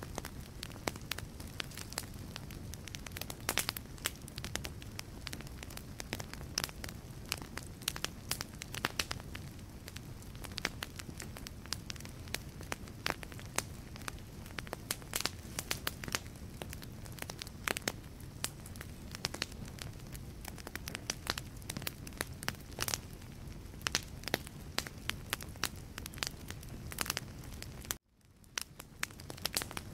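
Wood fire burning in a fireplace: a steady low rumble of flames with dense, irregular crackles and pops from the burning logs. Near the end the sound cuts out abruptly and fades back in.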